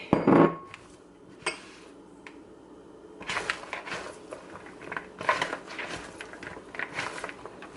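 Sliced bell peppers and onion being tossed and handled in a bowl: irregular light clicks and rustles from about three seconds in, after a brief loud sound right at the start.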